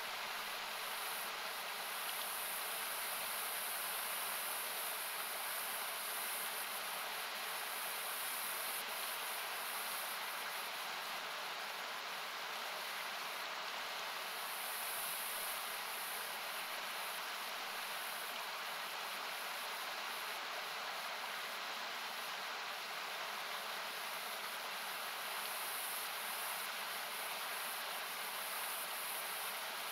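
Steady rushing of a nearby mountain river, an even noise-like roar thinned by equalizing, with a very high hiss that swells and fades every few seconds.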